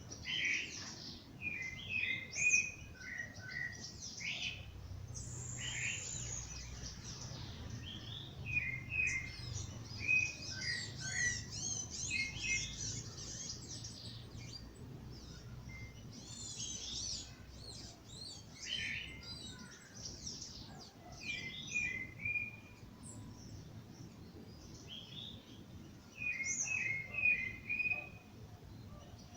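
Several songbirds singing and chirping in a dawn chorus, with repeated short trilled phrases and rapid high sweeping notes overlapping. A faint low rumble sits underneath for much of the time.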